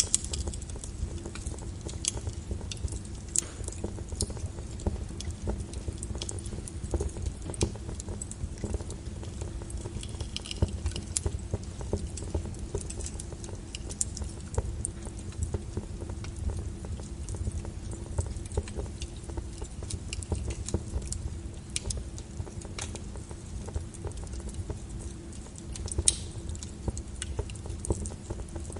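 Wood fire burning in a fireplace: a low steady rumble with irregular crackles and pops, a few sharper pops scattered through.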